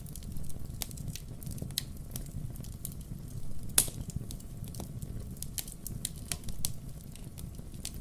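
Burning firewood logs crackling: irregular sharp pops and snaps over a low steady rumble, with one louder pop near the middle.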